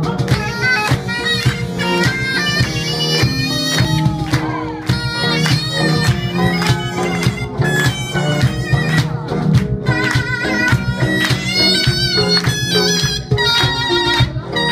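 Live music from a Korean traditional performance ensemble: a reedy wind instrument plays a wavering melody over a steady low tone, with dense drum and percussion strokes throughout.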